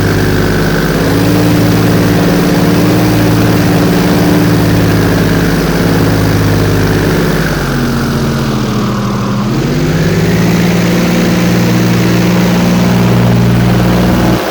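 Airboat engine and large air propeller running steadily at cruising speed. About eight seconds in, the engine's pitch drops as it is throttled back, then rises again to its earlier note about two seconds later.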